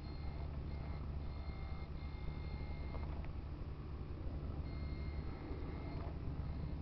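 Sound module of an RC model Kamaz truck playing a steady diesel-engine hum, with a high electronic reversing beeper that comes and goes in stretches as the truck backs up.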